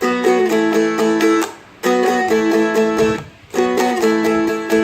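Seagull Merlin M4, a four-string fretted strumstick, playing the same short phrase of quickly picked notes three times, with a brief pause between each.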